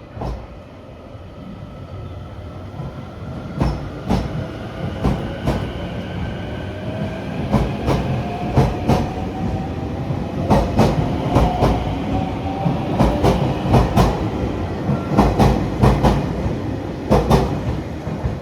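Train running over rail joints, giving paired clickety-clacks as each bogie's wheels cross. The sound grows louder, with a faint whine rising slowly in pitch beneath it.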